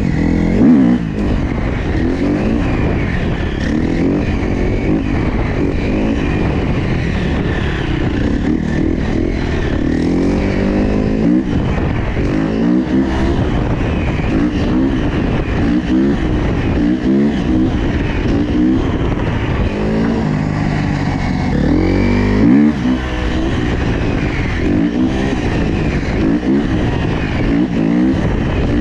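Dirt bike engine revving repeatedly, its pitch rising and falling again and again.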